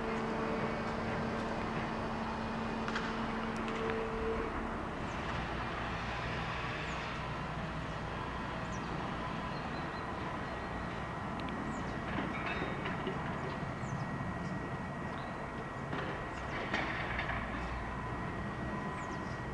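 Train rolling through the station: a steady low rumble with scattered clicks and a faint thin squeal in the second half. A steady hum stops about four seconds in.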